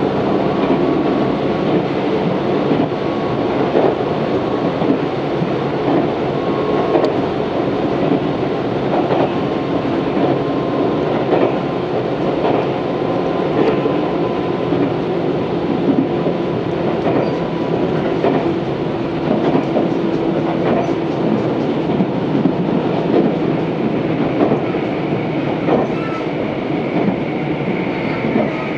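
Tobu 634-series electric train running at speed, heard from inside the car: steady rumble of wheels on rail with the clickety-clack of rail joints and a faint steady whine. A high thin squeal sets in near the end.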